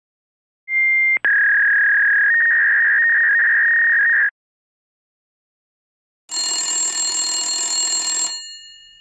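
Two separate telephone sound effects. First a fax machine's connection tones: a brief high beep, a click, then a steady screeching tone for about three seconds. After a pause comes an old telephone's mechanical bell ringing for about two seconds, which then dies away.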